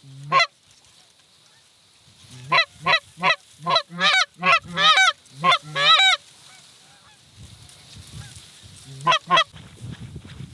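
Goose honks: a single honk, then a quick run of about nine, and two more near the end.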